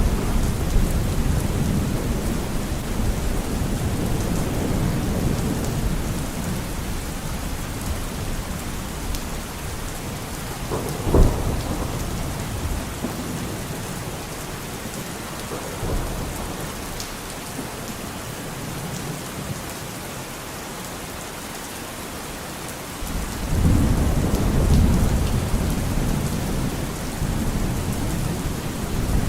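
Steady rain falling with rolling thunder: a low rumble dies away over the first several seconds, a short sharp thunderclap comes about eleven seconds in, and another long rumble swells up about three-quarters of the way through.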